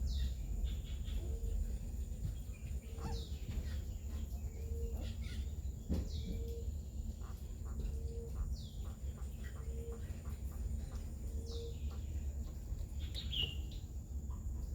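Ringneck dove (burung puter) cooing: a short low coo repeated about once a second until near the end. Higher falling chirps of small birds come every couple of seconds over a steady low rumble.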